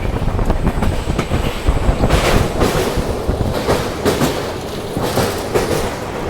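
Passenger train running on the rails, with a steady low rumble and, from about two seconds in, a run of wheel clacks over rail joints.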